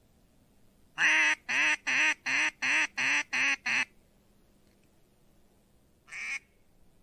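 Mallard duck call blown by a hunter: eight loud quacks in a quick run, about three a second, then one more quack about two seconds later.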